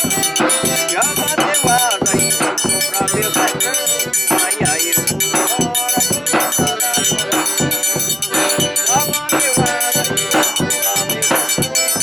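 Live forró pé-de-serra, played instrumentally: a melody line over a steady low drum beat and bright high percussion.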